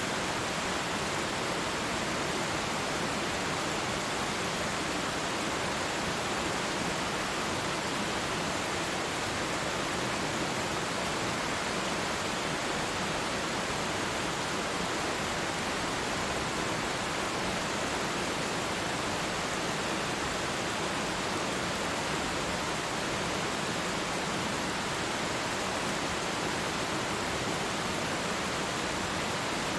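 Waterfall: water falling and rushing in a steady, unbroken roar with no changes.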